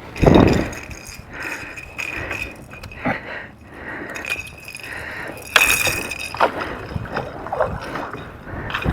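Irregular knocks, clinks and scrapes of fishing gear being handled aboard a boat, with a couple of short squeaks.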